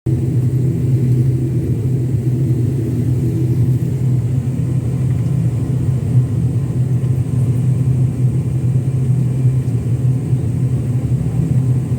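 Airliner cabin noise on the ground: a steady low hum and rumble, with a faint high whine above it.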